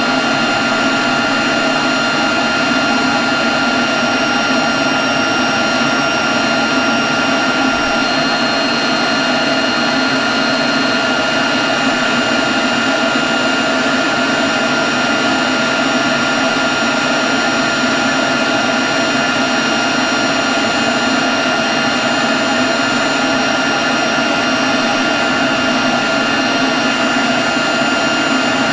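Leaf blower running steadily at constant speed: a loud, even rush of air with thin, steady whining tones over it.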